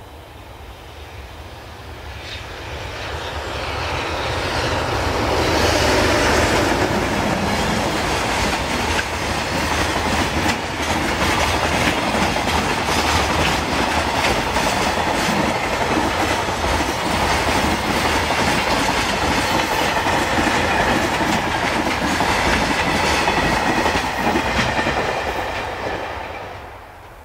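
JR Freight EH500 electric locomotive and its long string of container flatcars passing at speed, the wheels clattering rapidly over the rail joints. The sound swells as the train approaches, holds steady while the wagons roll by, and dies away near the end.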